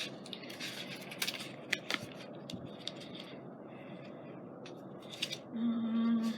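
Rustling and light clicking and tapping of paper craft supplies being handled, then a short steady hum near the end, the loudest sound.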